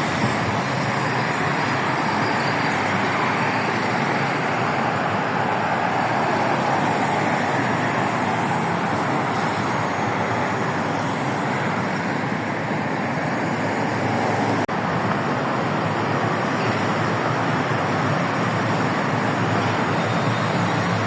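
Steady road traffic noise from a busy highway: a continuous wash of passing cars and heavier vehicles with no single event standing out.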